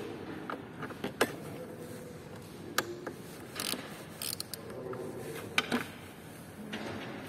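Hand work on metal car parts: several sharp metallic clicks and knocks with short scraping rustles as the windscreen wiper linkage is unbolted and worked free.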